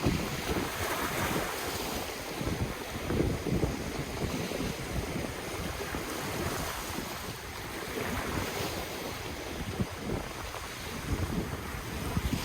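Ocean waves breaking and washing up on the shore, swelling and fading several times, with wind buffeting the microphone in a low, uneven rumble.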